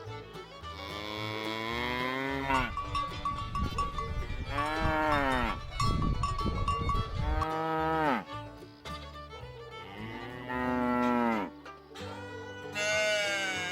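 Cows mooing: about five long, drawn-out moos one after another, each dropping in pitch as it ends.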